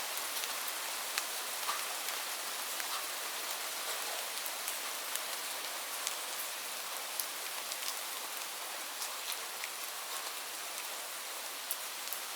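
Steady rain falling, an even hiss with many individual drops ticking sharply against a surface.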